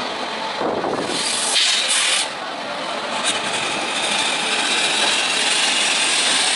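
Train running on the track: a steady rushing, scraping noise of wheels and moving coaches, with a louder hissing surge about one and a half to two seconds in.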